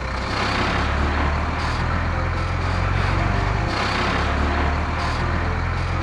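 Heavy truck engines running steadily as dump trucks and a cement mixer truck drive along, a low, even engine hum.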